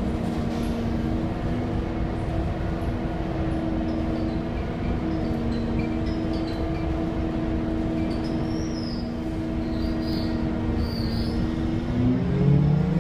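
Scania K230UB bus with its DC9 diesel and ZF automatic gearbox, running with a steady hum and a steady whine. About twelve seconds in, the whine rises sharply as the bus picks up speed.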